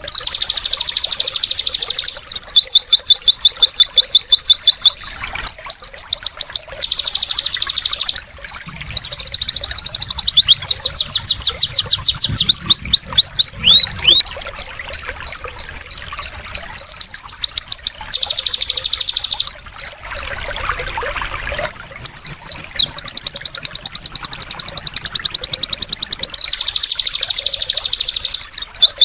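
White-eye (pleci) song: long runs of rapid, high trilled notes broken by short pauses, with trickling water behind it.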